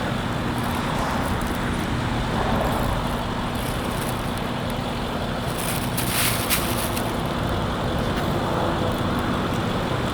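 Steady low engine hum with traffic noise, and a brief hiss about six seconds in.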